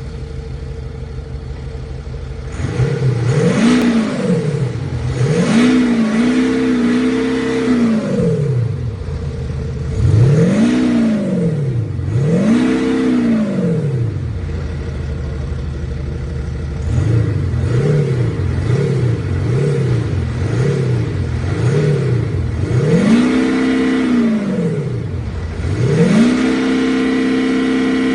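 BMW X5 (F15) 3.0-litre straight-six diesel with a modified exhaust, idling and then revved about seven times. The revs rise and fall back to idle, and some are held briefly at higher revs.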